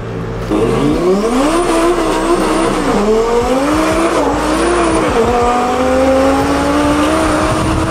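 Twin-turbo Lamborghini engine accelerating hard, heard from inside the cabin: the revs climb, drop at upshifts about three and five seconds in, then pull on steadily in the next gear.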